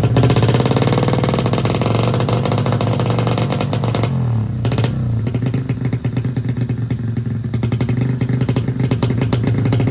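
Tuned racing motorcycle engine running at idle with a rapid, uneven firing beat; its pitch sags briefly about four seconds in, then steadies again.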